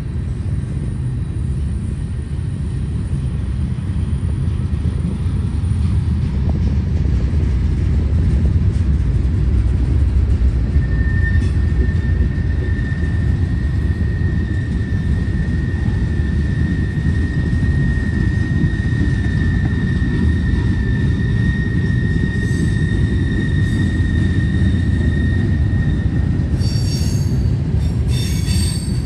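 Freight train of tank cars rolling past, a steady low rumble of wheels on rail. From about eleven seconds in, a steady high-pitched wheel squeal holds for about fifteen seconds, and a few short squeals follow near the end.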